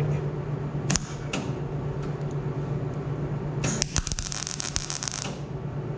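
Welder laying a tack weld on a thin-wall steel exhaust pipe: a crackling, sizzling burst of about a second and a half, starting a little past halfway, over a steady low hum, with two sharp clicks about a second in.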